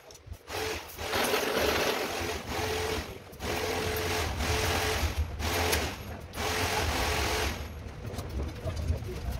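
A small motor-driven tool or machine running in several bursts of a few seconds each, with brief pauses between them, stopping a couple of seconds before the end.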